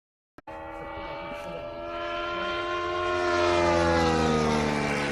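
Small glow-plug model aircraft engine on a radio-controlled Shinden model, running at high revs in flight. After a brief dead-silent cut at the start, its whine grows louder and drops in pitch as it flies past, loudest a little past the middle.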